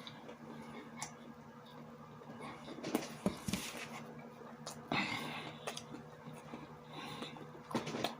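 Close-miked eating sounds: chewing and mouth noises from someone eating a sausage with sauerkraut, with a few louder bites or smacks about a second in, around the middle, and near the end, over a faint steady hum.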